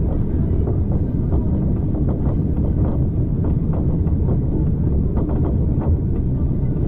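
Passenger train running along the track: a steady low rumble of wheels on rails, with occasional faint knocks.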